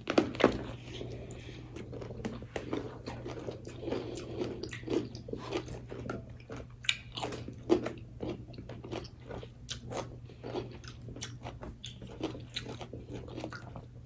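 Crunchy bites into pickles coated in cotton candy, then close-up chewing: a loud crack of the first bite, followed by many irregular wet crunches. A steady low hum runs underneath.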